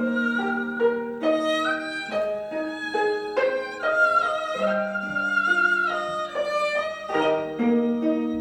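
Haegeum (Korean two-string fiddle) bowing a melody over plucked gayageum (Korean zither) accompaniment, with a long held high haegeum note around the middle.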